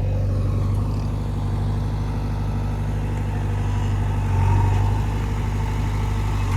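Heavy diesel engine of a construction machine running steadily, briefly rising in level about four and a half seconds in.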